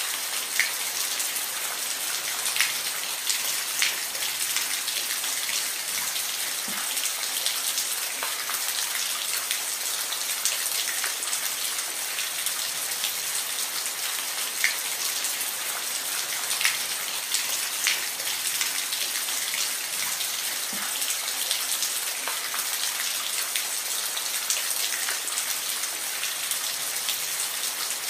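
Steady rain falling, a dense even hiss with scattered louder drops ticking on a surface.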